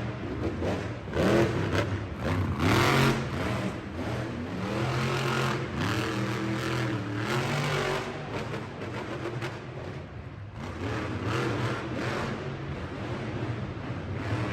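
Monster truck engine revving up and easing off repeatedly, its pitch rising and falling.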